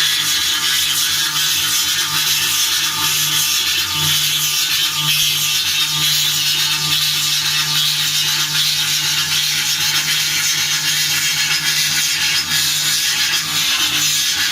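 CNC engraving machine's spindle cutting silver plate: a steady high hiss from the cutter over a low, even motor hum.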